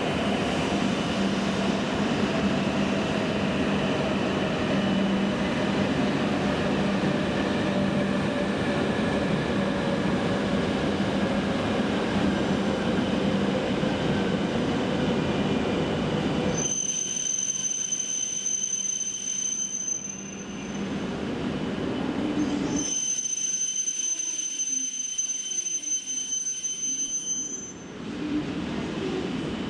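E7 series Shinkansen train running into the station, with a steady rumble and tones that slowly fall in pitch as it slows. About seventeen seconds in, the rumble drops away suddenly, leaving a steady high-pitched whine that breaks off twice.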